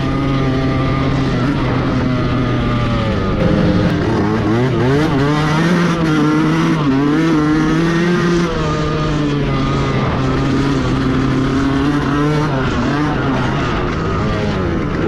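Yamaha YZ125 two-stroke dirt bike engine running hard, holding a steady note at first, then revving up and down repeatedly through the middle, then settling back to a steady note.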